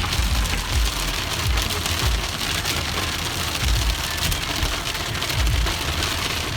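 Heavy rain falling in a steady hiss with many small sharp ticks, at the moment the speaker thinks it is turning into hail. Repeated low thumps run under it.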